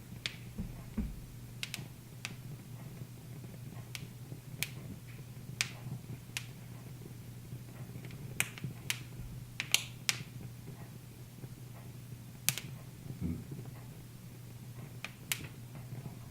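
Wood fire in a fireplace crackling: irregular sharp pops, some louder than others, over a low steady hum.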